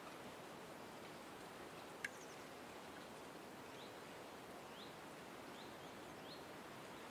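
Faint outdoor ambience with a steady background hiss, a single sharp click about two seconds in, then four short upward-sweeping bird chirps spaced roughly a second apart.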